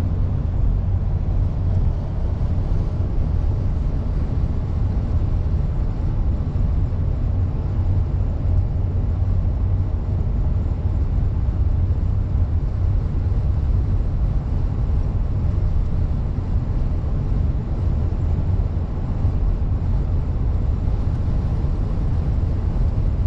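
Steady road and engine noise of a car driving at highway speed, heard from inside the cabin as a low rumble.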